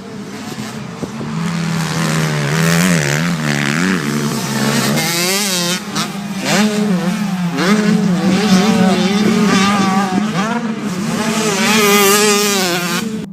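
Several racing engines running at once, their pitch climbing and falling over and over as they rev through the race. The sound drops away sharply at the very end.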